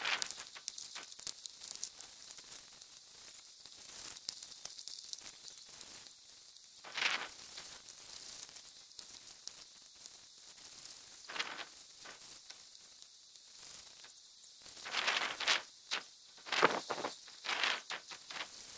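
Close rustling and crackling with many small clicks, broken by a few louder swishes, one about a third of the way in and a cluster near the end.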